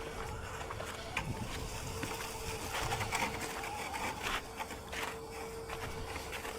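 Steady faint whine from a small electric motor, with scattered light clicks and crunches over it.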